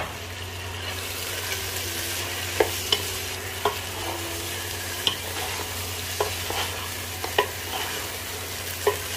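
Chicken pieces with green chillies and ginger-garlic paste sizzling in hot oil in a nonstick pot while a wooden spatula stirs them. The spatula knocks sharply against the pot about seven times.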